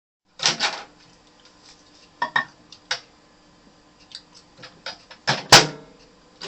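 Clicks and knocks of a cup being handled at a microwave oven: a series of separate taps and clatters, the loudest sharp knock near the end.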